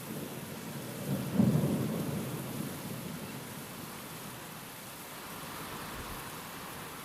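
Steady rain with a clap of thunder about a second in, rumbling low and dying away over the next couple of seconds.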